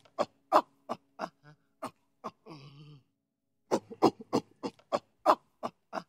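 An animal calling in short, sharp, repeated calls, about three or four a second, in two bouts with a pause of about a second in the middle.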